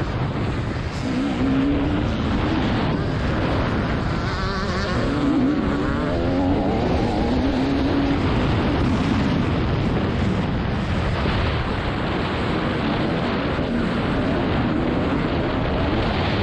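TM 300 two-stroke motocross bike engine being ridden hard, its pitch climbing and dropping again and again as the throttle is opened and shut.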